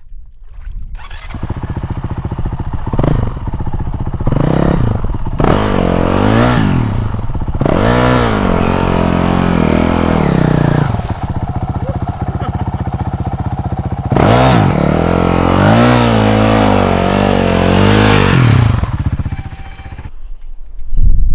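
A dirt bike's engine revved hard in repeated bursts, its pitch rising and falling, as the bike is driven and pulled out of deep swampy mud. It runs steadier in the middle, revs up again, and drops away near the end.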